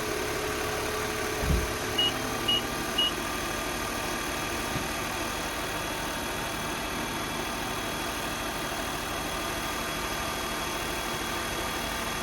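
Nissan Note E12 engine idling steadily, running on its newly fitted battery. A single thump about one and a half seconds in, then three short high electronic beeps half a second apart.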